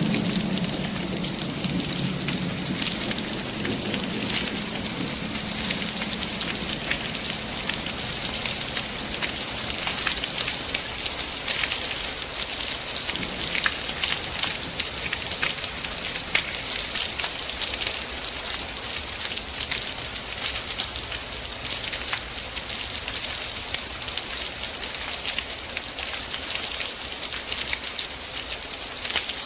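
Heavy rain falling steadily, with a dense patter of drops striking hard surfaces. A low rumble of thunder dies away in the first couple of seconds.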